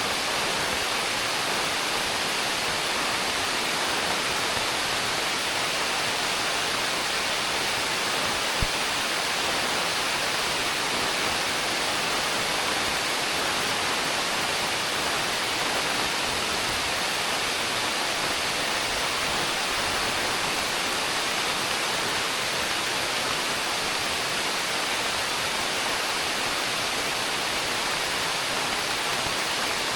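Heavy rain falling steadily, a dense even hiss, with a single sharp tap about eight and a half seconds in.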